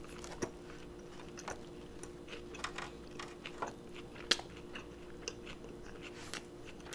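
Close-up sound of a person chewing a mouthful of elk cheeseburger: many small, irregular mouth clicks and smacks over a faint steady hum.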